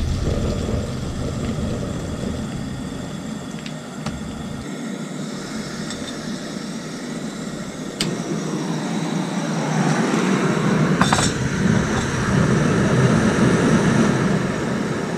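Korean barbecue pork sizzling on a grill pan over a camp stove, a steady hiss that grows louder about halfway through, with a few light clinks.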